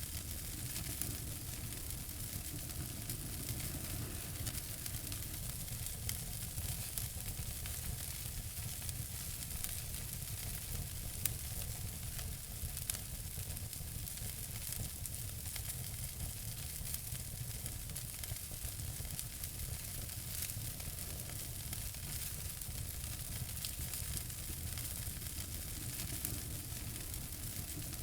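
Wood fire crackling in a fireplace: a steady hiss scattered with many small, sharp pops, over a low rumble.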